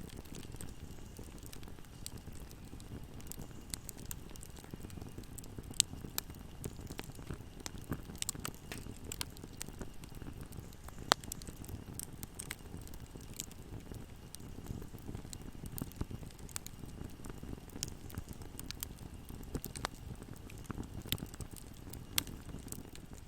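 Wood fire burning in a fireplace: a steady low rumble with irregular sharp crackles and pops, two louder pops about 6 and 11 seconds in.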